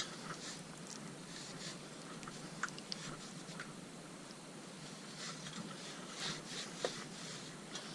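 Short, scratchy rubbing and scraping strokes against a motorcycle wheel rim as old sealant gunge is cleaned off, with a few small clicks and taps.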